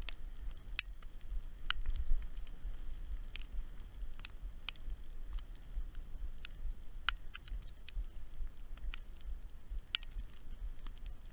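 Wind buffeting a GoPro microphone as a low, steady rumble, with scattered sharp ticks of raindrops striking the camera housing.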